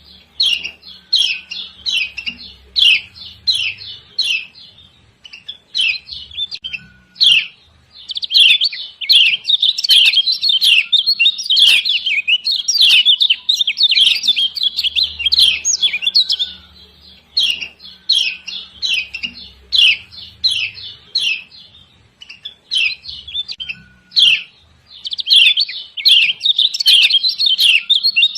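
Kecial kuning (Lombok white-eye) giving its 'ciak ciak' call, the female call used as a lure to set other birds singing: rapid runs of sharp, high chirps lasting several seconds each, broken by short pauses.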